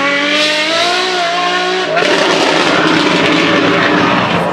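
Apollo Intensa Emozione's 6.3-litre naturally aspirated V12 engine running hard and loud, its pitch climbing over the first second and then holding. About two seconds in, the sound turns rougher and noisier.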